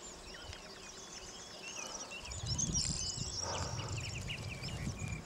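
Small birds singing, with many short chirps and whistles overlapping. A low rumble joins in about two seconds in.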